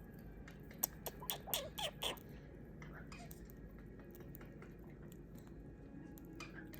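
Galah cockatoo chewing a treat with its beak: a quick run of small crunches and clicks about a second in, then a few fainter clicks over quiet room tone.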